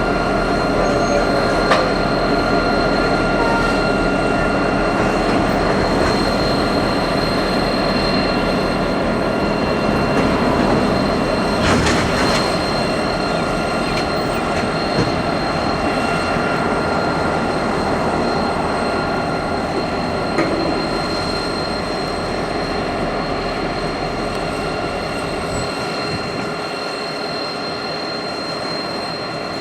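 Train rolling past on the rails, with steady high-pitched wheel squeal over the rumble; the deep rumble drops away near the end.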